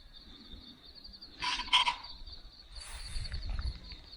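Natural outback ambience: a steady high-pitched pulsing chorus, typical of insects, with a short bird call about a second and a half in and a low rumble of wind or handling near the end.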